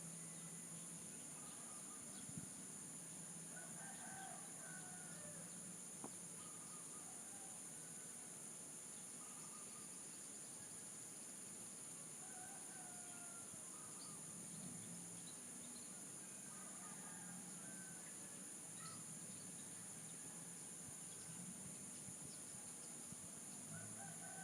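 Distant roosters crowing faintly several times, over a steady high-pitched drone of insects.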